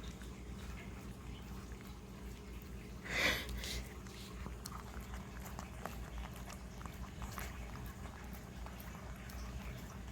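A puppy licking and smacking peanut butter off a spoon: a run of small wet clicks, with one short breathy huff about three seconds in.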